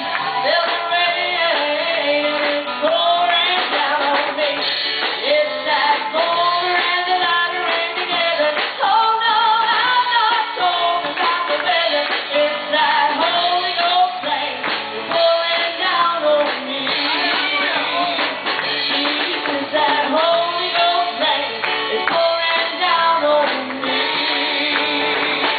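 A woman singing a gospel song with instrumental backing, holding wavering notes.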